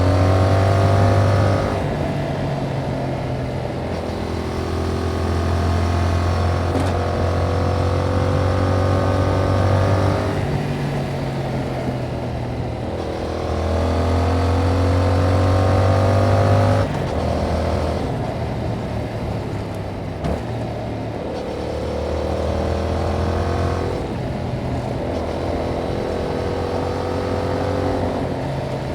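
Yamaha MT-07 parallel-twin engine on its stock exhaust, pulling hard again and again: the pitch rises through each gear or bend, then drops back as the rider shifts or rolls off. This happens about five times.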